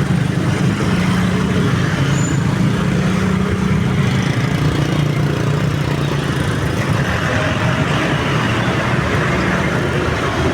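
Steady vehicle engine noise: a heavy engine running with a constant low hum, over a general haze of traffic noise.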